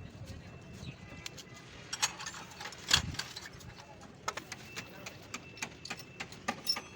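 Scattered metallic clicks and knocks from hand tools and engine parts being handled, with one sharper clank about three seconds in.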